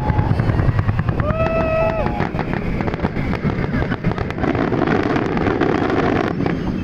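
Fireworks: a low boom as a shell bursts, then several seconds of dense crackling from crackle effects. A voice calls out briefly about a second and a half in.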